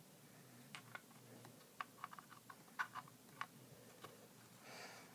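Faint, irregular small clicks and taps, about a dozen in the first four seconds, from the parts of a Thomas Wooden Railway switch tower being handled and turned.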